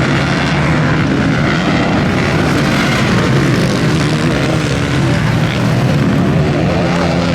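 Several motocross bike engines revving around the track, their pitch rising and falling as the riders accelerate and shift.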